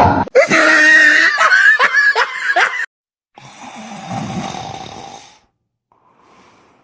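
Snore-like wheezing breaths: a long, squeaky, wavering breath, then a rougher, noisier breath, then a faint one near the end.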